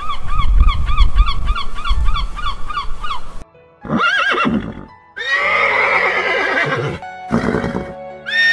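A flock of flamingos honking, a rapid run of repeated calls over a low rumble that stops about three and a half seconds in. Then horses neighing: a short neigh about a second later, and a long whinny falling in pitch over nearly two seconds, with another call near the end.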